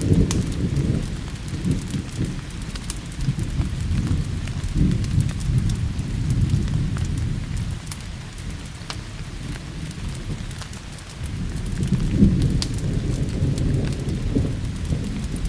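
Rolling thunder rumbling under steady rain, swelling again about eleven seconds in, with scattered sharp pops of a crackling wood fire.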